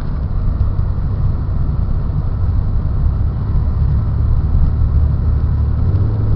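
Car driving along a snow-covered road, heard from inside the cabin: a steady low rumble of the engine and tyres.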